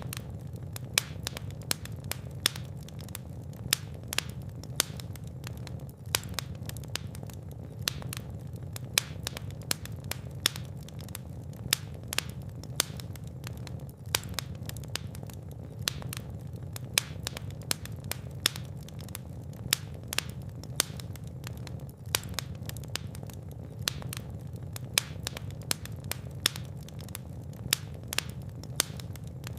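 Fire in a fireplace crackling, with sharp pops and snaps several times a second over a steady low rumble of the flames.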